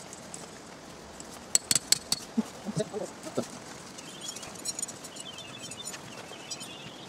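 A quick run of sharp clicks and clinks, then a small bird calling in a high, rapid chatter for the last few seconds.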